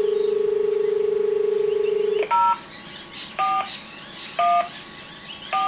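Telephone dial tone, a steady pulsing hum, cut off about two seconds in. Four touch-tone keypad beeps follow about a second apart as a number is dialled.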